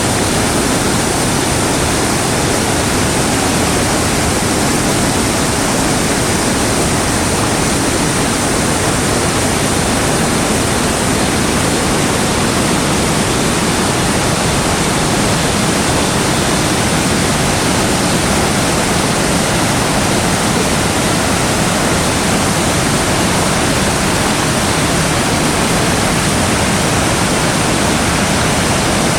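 Manavgat Waterfall on the Manavgat River, water pouring over the falls in a loud, steady, unbroken rush.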